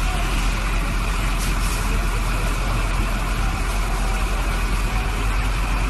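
Steady low rumble of a motor vehicle with even road or wind noise over it, holding constant with no impact.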